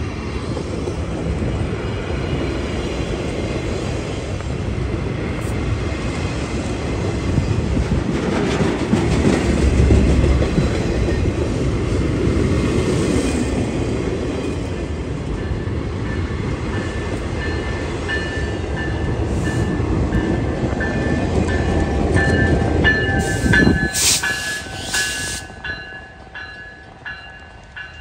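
A freight train of empty flatcars rolls past close by, a steady rumble and rolling of steel wheels on the rails. The rumble is loudest about ten seconds in and cuts off abruptly near the end, leaving a much quieter stretch with a faint repeated high ringing note.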